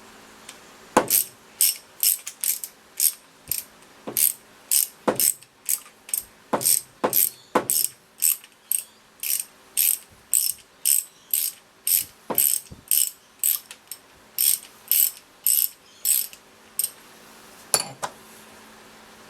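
Socket ratchet clicking in quick, even back-and-forth strokes, about two a second, as the fork's threaded top cap nut is wound out.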